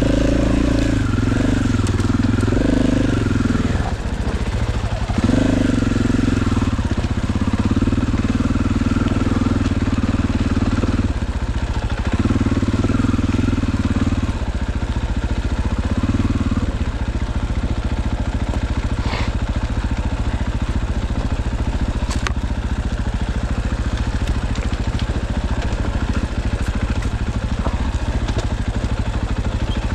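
Dirt bike engine running. Its note changes in steps with the throttle for the first half or so, then settles into a steady, even run.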